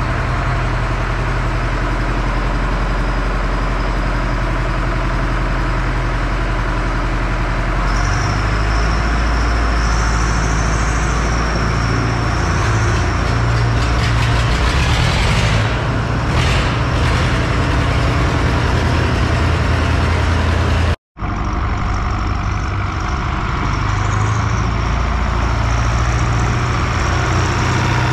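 A large vehicle engine running steadily, with a thin high whine joining in about eight seconds in. The sound drops out for a split second about two-thirds of the way through.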